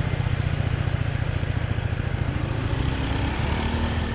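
Motorbike engine running steadily while being ridden along a street, a fast low rumble close to the microphone over road noise.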